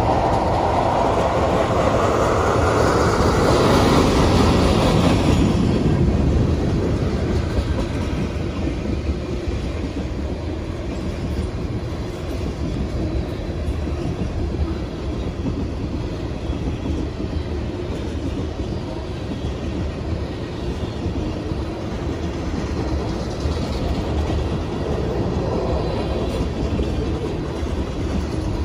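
Freight train of ethanol tank cars rolling past, steel wheels running on the rails in a steady noise. It is louder and brighter for a few seconds near the start, with a smaller swell near the end.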